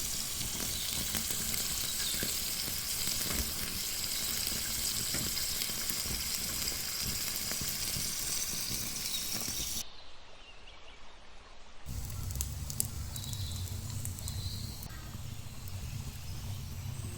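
Hot oil sizzling as food fries in a miniature pan, a steady crackling hiss that stops abruptly about ten seconds in. After a short lull, a quieter background with a low hum and a few faint chirps follows.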